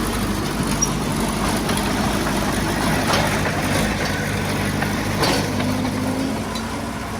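Diesel engine of heavy earthmoving equipment running steadily, with a few faint clanks.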